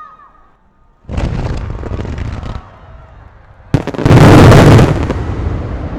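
Opening volley of festival fireworks: about a second in, a rush of shells going up for a second and a half, then a sharp crack and the loudest part, a heavy boom about four seconds in that trails off in a long rolling rumble.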